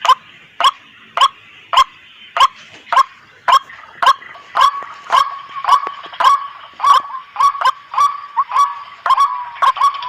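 White-breasted waterhen (ruak-ruak) calling: a long run of sharp, repeated notes, about two a second, coming a little faster toward the end, over a fainter continuous chatter.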